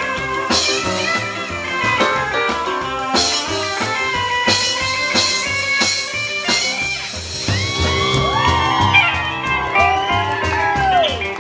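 Live rock band playing an instrumental break: electric guitar lead over bass, drums and piano, with bent, gliding guitar notes in the second half.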